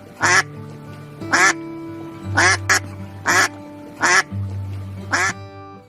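Duck quacking: a series of short, loud, rasping quacks, roughly one a second, with one quick pair in the middle.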